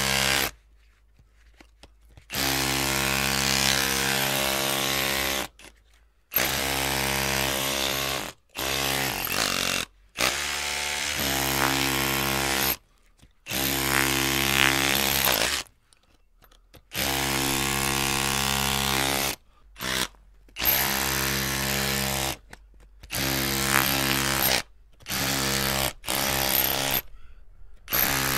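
Electric drill motor run in repeated bursts of about one to three seconds with short silent gaps between them: a steady whirring hum with a buzzy whine on top, cutting off sharply at each trigger release. Once, about ten seconds in, it runs at a lower speed before coming back up.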